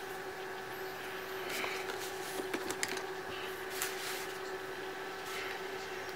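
A steady electrical hum with a few small clicks and soft handling noises from work on a laptop.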